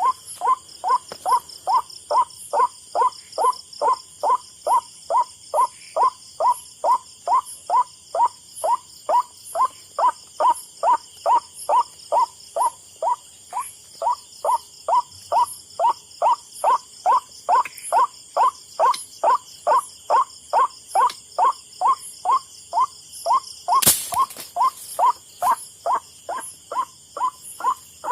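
White-breasted waterhen 'kwak' lure call played on a loop through a speaker, about two short falling calls a second, very regular. About 24 seconds in comes a single sharp crack, the shot of a methylated-spirit (spirtus) gun firing a marble.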